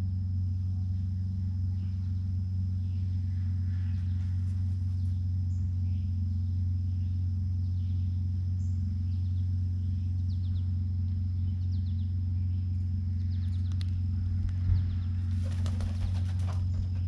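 A steady low hum, with faint short bird chirps scattered throughout. Near the end comes a brief burst of rustling strokes.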